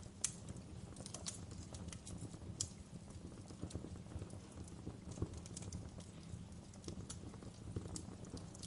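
Wood fire crackling: irregular sharp pops and snaps, a few louder ones, over a low steady rumble of the burning fire.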